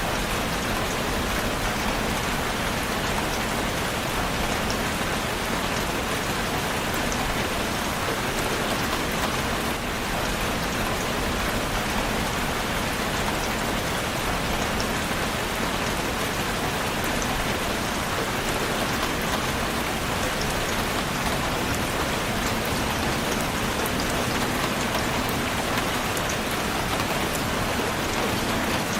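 Steady, even rainfall, with many fine drop ticks scattered through it.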